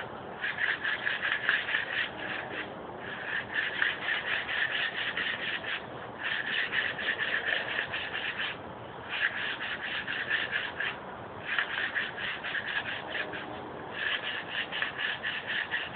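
A 150-grit sanding belt held in the hand and rubbed back and forth over a bark-covered wooden limb, taking the rough edges off. Fast rasping strokes come in runs of about two seconds, with short pauses between them.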